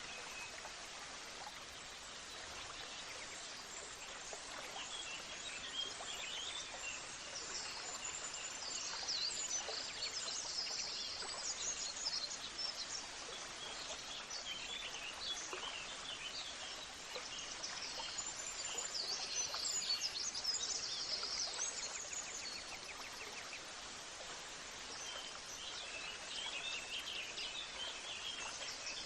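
Small birds chirping and singing in spells over a steady background hiss of outdoor ambience; the calls are busiest about a third of the way in, again past the middle, and near the end.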